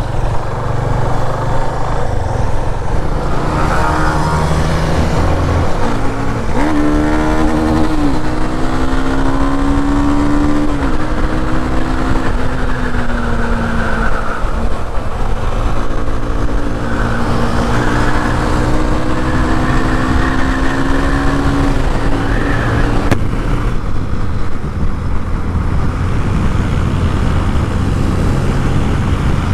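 Yamaha FZ25's single-cylinder engine on the move, its note climbing and falling with throttle and gear changes, under a steady rush of wind on the camera microphone. The engine note eases off and drops away for the last few seconds.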